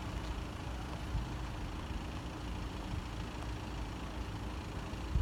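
Steady low engine rumble, as of vehicles idling, with a faint steady hum above it.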